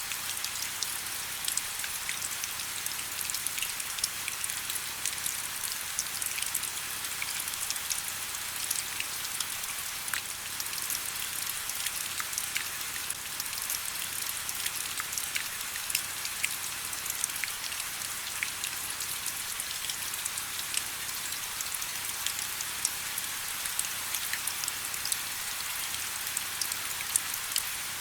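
Steady rain: an even hiss with many individual drops ticking sharply throughout.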